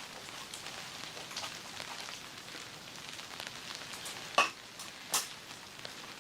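Rain falling steadily, with scattered drops ticking, and two sharper taps about four and five seconds in.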